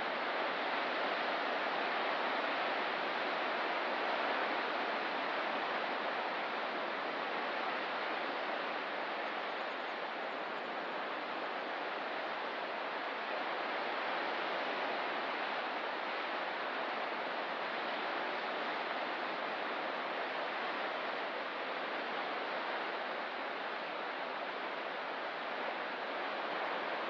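Ocean surf: a steady, even wash of waves with no single breaker standing out.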